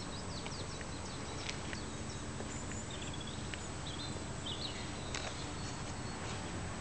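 Small birds chirping, with many short, high chirps and brief whistled notes, over a steady low hum.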